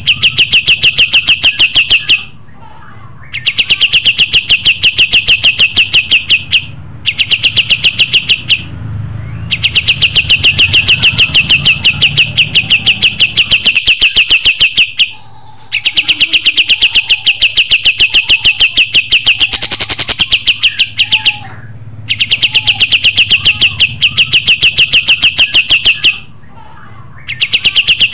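Kapas tembak songbird singing loud, rapid-fire trills of quick repeated high notes, each run lasting a few seconds, with brief pauses between runs.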